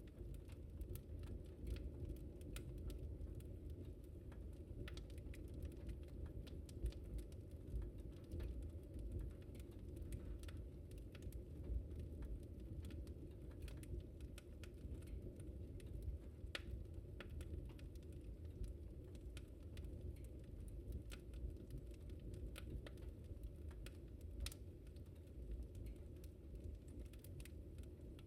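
Fire crackling in a fireplace: irregular sharp crackles, a few louder than the rest, over a steady low rumble of the flames.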